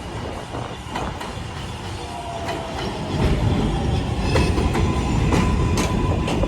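NYC Subway R188 train running along the elevated track, louder about three seconds in, with wheels clacking over rail joints under a heavy rumble and a thin steady motor whine.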